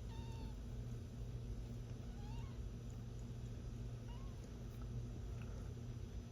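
Newborn kittens mewing faintly: a few short, high, thin mews a couple of seconds apart, over a steady low hum.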